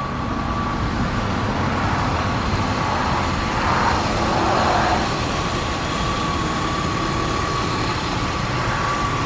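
Steady outdoor motor-vehicle noise that swells briefly about four seconds in, as of a vehicle passing, with a faint steady whine.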